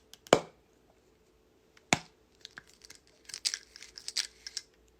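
Two sharp knocks close to the microphone, then a run of quick crackling and crinkling, like handling or crunching something in a wrapper.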